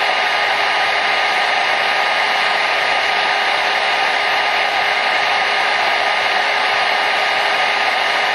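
Hair dryer running steadily: an even rushing of air with a faint constant motor whine, unchanging throughout.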